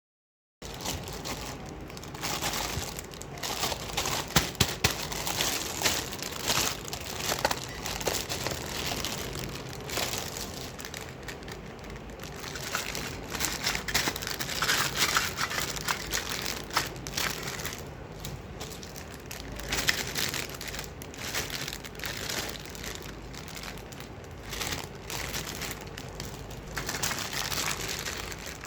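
Plastic toy packaging crinkling and rustling as it is handled and unwrapped, with irregular sharp crackles and clicks throughout.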